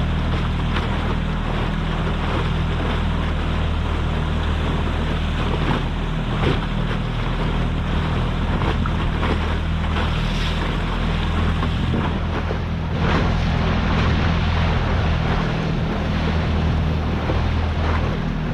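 A boat motor running steadily at low trolling speed, with a constant rush of wind and water around the boat.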